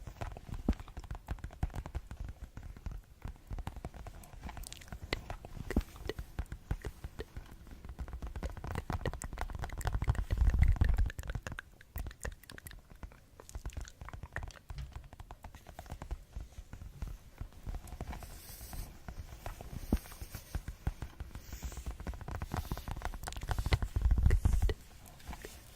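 Fast ASMR finger tapping on objects close to the microphone: a dense stream of quick taps and clicks. The tapping turns into louder, deeper thumping for about a second around ten seconds in, and again near the end.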